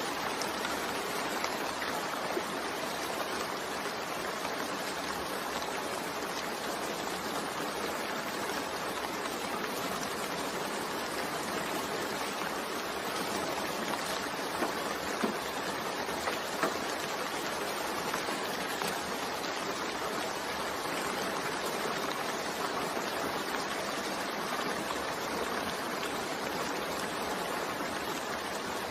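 Steady rain falling, an even hiss of drops with a few louder single drops ticking about halfway through.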